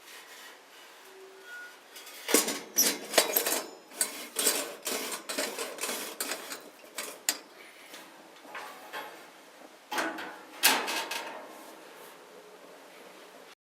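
Small wood bonfire crackling: a dense run of sharp pops and snaps starting about two seconds in, thinning out for a moment before a last cluster near the end.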